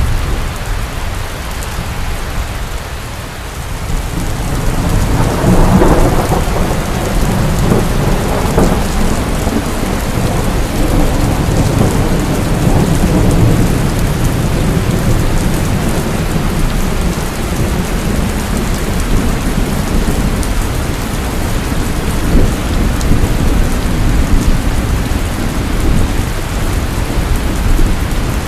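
Heavy rain falling steadily, with a roll of thunder that swells about five seconds in and rumbles on.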